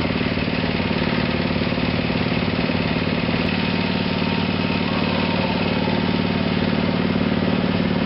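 Small go-kart engine running steadily, with its pitch shifting slightly about three and a half seconds in.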